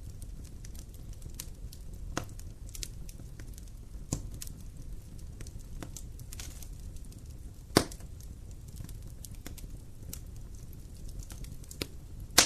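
Wood campfire burning: a steady low rumble of flames with irregular crackles and pops, the loudest sharp pop a little before eight seconds in.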